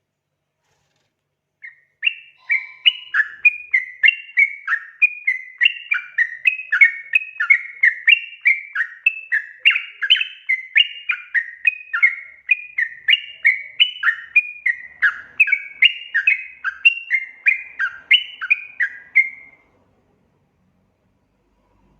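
Yellow-vented bulbul (trucukan) song: a long, lively run of bubbly chirping notes, each dipping and rising, about two a second. It starts about two seconds in and breaks off a couple of seconds before the end.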